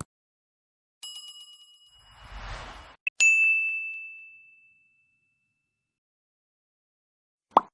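Subscribe-button animation sound effects: a faint chime about a second in, a short whoosh, then a click and a bright bell ding that rings out over a second or so. A short pop comes at the very end.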